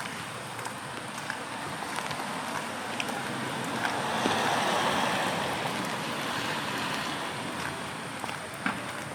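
Rain and wet-street ambience, with a vehicle's tyres hissing past on the wet road, swelling about four seconds in and fading away after.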